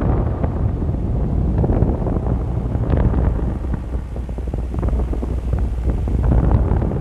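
Wind buffeting the microphone: a heavy low rumble with gusts swelling and easing.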